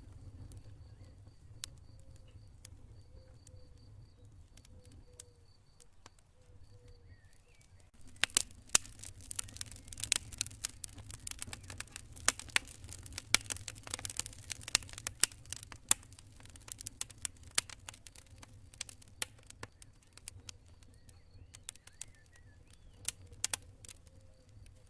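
Campfire crackling and popping: for the first third only a few scattered pops while crickets chirp in steady high pulsed trills, then a dense run of sharp crackles and loud pops from about a third of the way in, thinning out near the end. A low steady rumble lies underneath.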